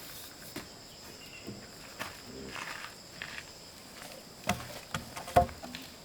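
Steady high-pitched insect chorus, with a few scattered sharp knocks and clicks, the two loudest close together near the end.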